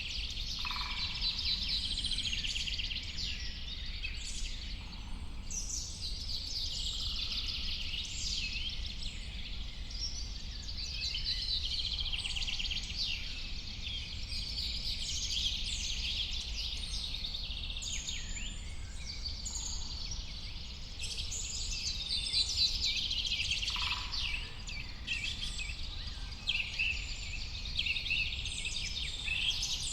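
A chorus of many small birds singing and chirping at once, with quick overlapping chirps and trills, over a steady low rumble.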